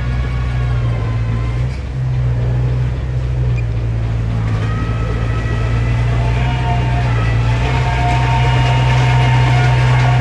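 Diesel engine of heavy earthmoving equipment running steadily under load, with a whining tone that climbs in pitch about four to five seconds in and then holds.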